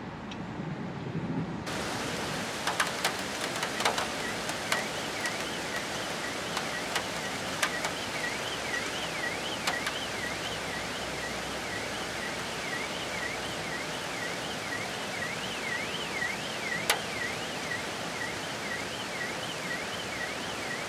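Steady hiss of a thunderstorm downpour with scattered sharp taps of drops, starting suddenly just under two seconds in. From about eight seconds in, an electronic alarm warbles up and down in pitch behind the rain.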